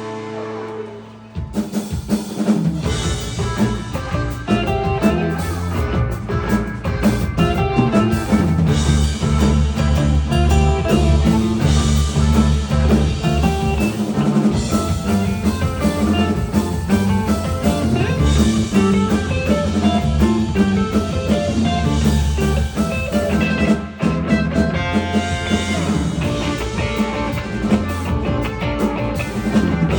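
Live rock band playing, with drum kit and electric guitar. A held chord fades, and the full band comes in about a second and a half in, keeping a steady beat. There is a brief drop about two-thirds of the way through.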